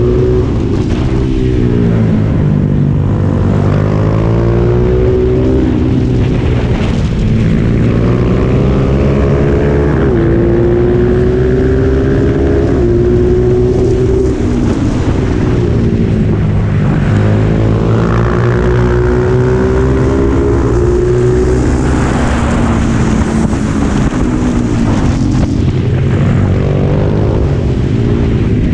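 Racing motorcycle's engine heard from onboard at full race pace, its pitch climbing over several seconds and then dropping back, again and again, as the throttle opens and closes through the gears and corners, with wind rush over the microphone.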